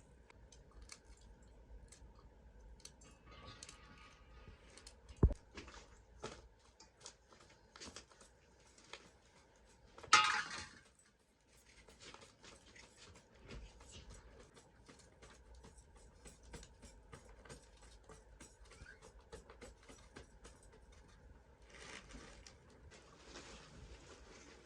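Small handling sounds: scattered light clicks and taps, one sharp thump about five seconds in and a brief scraping rustle about ten seconds in, over a faint steady hum.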